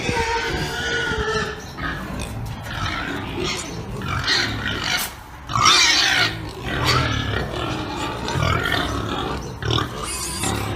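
Pigs calling, one call after another with no gaps, high-pitched calls over lower grunting, the loudest call coming about halfway through.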